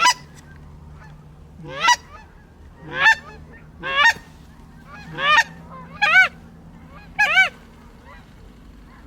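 Canada goose honks: a string of about seven loud, close honks, each a rising-then-falling note, roughly one a second.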